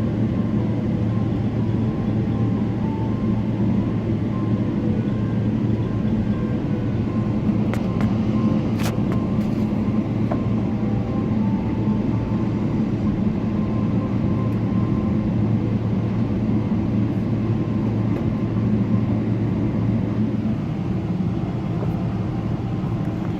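Steady low rumble and hum of a Boeing 777-300ER's cabin, with one sharp click about nine seconds in.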